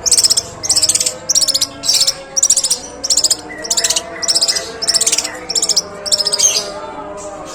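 Long-tailed shrike (pentet) giving long, harsh 'shots' that imitate Eurasian tree sparrow chatter. These are about a dozen high, rattling bursts, roughly two a second, that stop shortly before the end.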